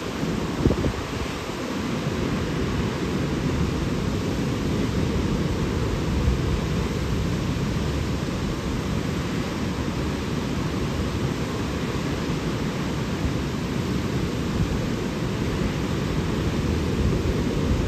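Steady rush of falling water, like a waterfall, with wind buffeting the microphone.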